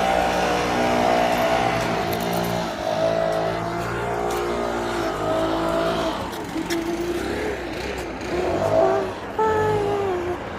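A motor vehicle's engine running close by, a steady pitched drone that shifts a little in pitch and eases off after about six seconds.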